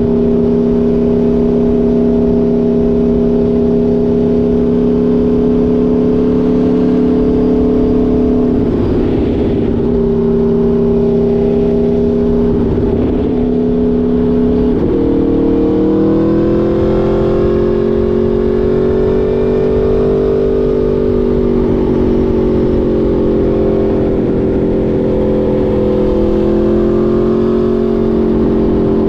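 Aprilia Tuono V4 motorcycle's V4 engine running at steady revs, with a few brief breaks in the note about nine, thirteen and fifteen seconds in. After that the pitch climbs a little and settles again.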